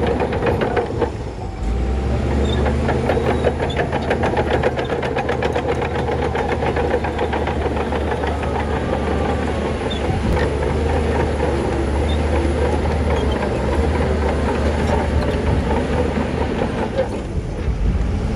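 Shantui crawler bulldozer's diesel engine running steadily under load, with a fast, even clanking of its steel tracks. About a second and a half in, the sound dips briefly, then a deeper engine drone comes in and holds.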